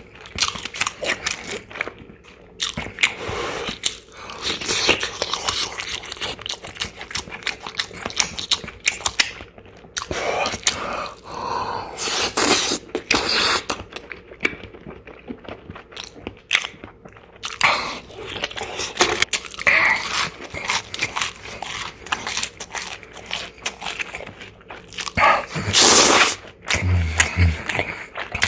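Close-miked eating: repeated crunchy bites and chewing with irregular crisp clicks, loudest near the end.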